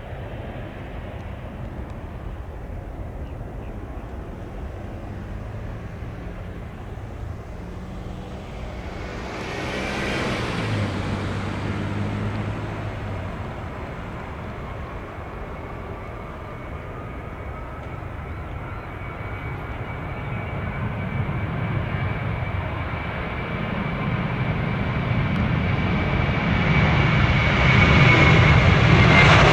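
Jet airliner engines growing steadily louder, their whine rising in pitch. A brief swell of noise passes about ten seconds in.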